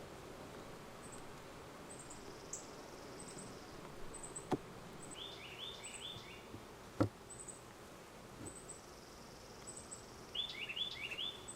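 Agitated honeybees buzzing loudly around an opened hive: a defensive colony after the inspection has disturbed it. Two sharp knocks sound about four and a half and seven seconds in, and high chirps repeat over the buzz.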